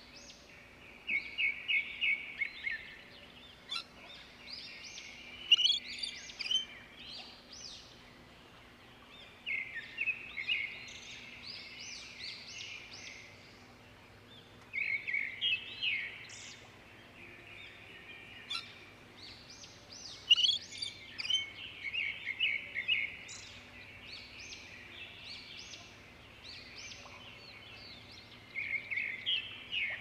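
Bird calls: phrases of rapid trilled chirping notes about two seconds long, coming every few seconds, over a faint steady background noise.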